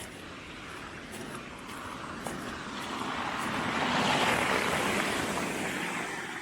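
A vehicle passing by: a rush of noise that swells, peaks about four seconds in, and fades away.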